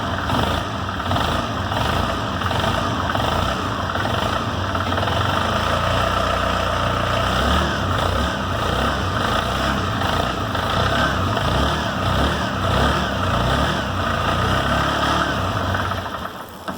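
Honda Fan 125's single-cylinder four-stroke engine idling steadily, with a small noise from inside the engine that the mechanic suspects is the camshaft. The engine cuts off near the end.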